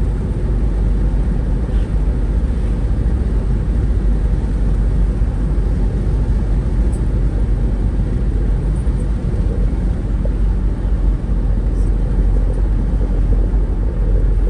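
Steady low rumble of a vehicle on the move, with no distinct events standing out.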